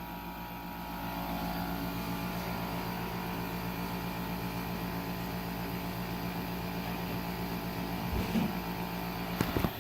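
Malfunctioning Paris Rhone 10200 BTU window air conditioner humming steadily while its fan stays still and no air comes out, the noise the owner takes for the compressor trying to kick in. Near the end there are a few short knocks and the hum cuts off.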